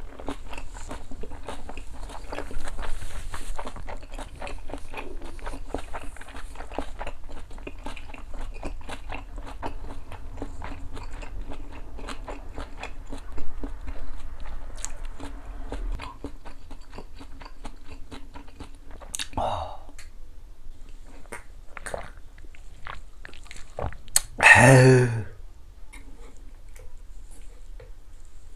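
A man chewing and biting soft stewed fish cake and kimchi close to a clip-on microphone, with a steady run of wet mouth clicks. The chewing thins out in the last third, and a short, louder voice-like sound comes near the end.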